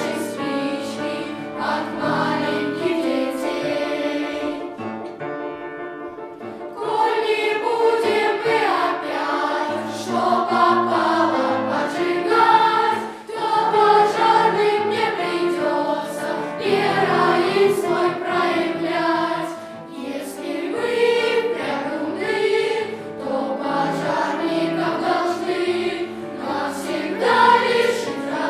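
Boys' choir singing with accompaniment, easing into a softer, quieter passage about five seconds in before coming back fuller.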